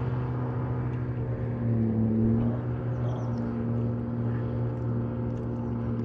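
A boat's outboard motor running steadily, its pitch rising briefly about two seconds in.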